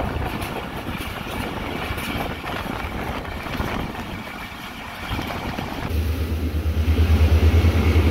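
Passenger train running at speed, heard from outside the coach window: steady rushing noise of the wheels and the air going past, with faint clicks. About six seconds in, a loud, pulsing low rumble sets in as the wind buffets the microphone.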